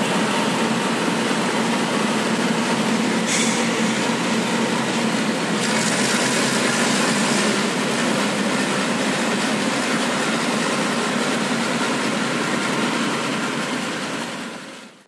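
Local economy passenger train rolling out past the platform: a steady rumble of the train running along the track, with a short hiss about three seconds in and a longer one around six to seven seconds. The sound fades out at the very end.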